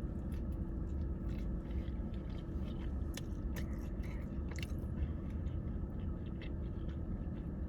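A person chewing food close to the microphone, with short wet mouth clicks scattered irregularly throughout, over a steady low hum.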